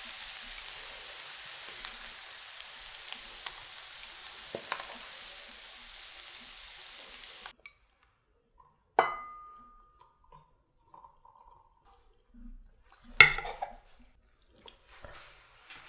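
Fried rice sizzling in a hot pan while it is stirred, with small scrapes and clicks, cutting off suddenly about halfway through. Then a sharp clink that rings briefly, and a few seconds later a louder clatter of utensils or dishes.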